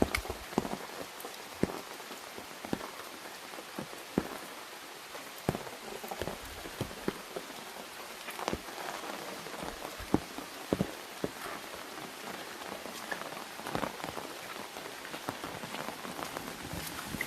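Steady rain with many separate drops striking an umbrella overhead, the heavier drops landing as sharp, irregular taps over a continuous hiss.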